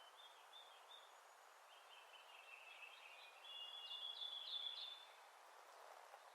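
Faint bird song over a steady hiss: a few short high notes, then a quick, warbling run of high notes starting about two seconds in that grows louder and stops about five seconds in.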